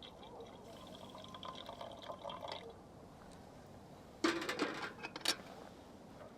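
Liquid poured into a cup or pot, a soft trickle for the first couple of seconds. About four seconds in comes a louder, brief clatter of something being handled.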